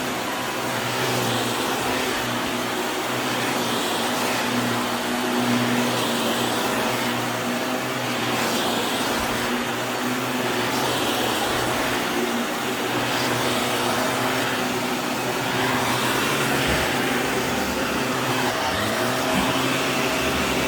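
Vacuum cleaner running steadily: a loud motor hum under an airy rush, swelling and easing a little every couple of seconds.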